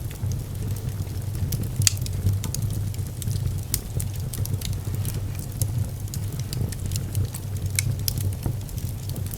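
Fire burning in a fireplace: a steady low rumble of flames with irregular sharp crackles and pops, a few louder ones about two, four and eight seconds in.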